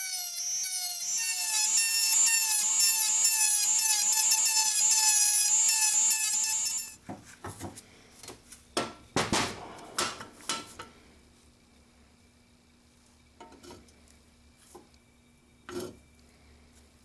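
A small high-speed power tool whining loudly, its pitch wavering as it works, for about seven seconds before it stops abruptly. After it come scattered light knocks and clicks of parts being handled.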